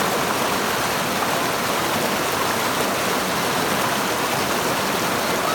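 River water babbling and splashing over rocks, a steady rush with no pauses.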